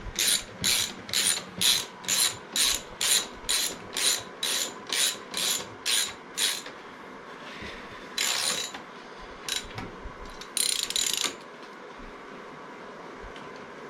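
Hand ratchet wrench clicking in steady back-and-forth strokes, about two a second, for the first six and a half seconds. Later come two longer, quicker runs of ratchet clicks and a few single clicks.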